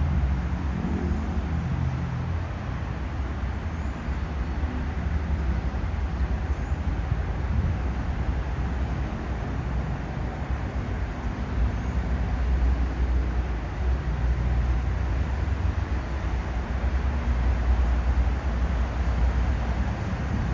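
Steady road traffic noise, a continuous low rumble of vehicles that swells a little in the second half.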